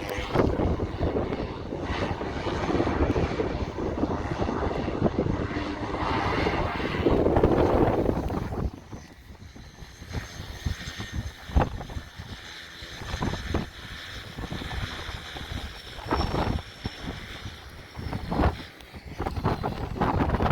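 Propeller airplane engine running loud, peaking about seven seconds in and dropping away sharply about a second later. Wind buffets the microphone in the quieter part that follows.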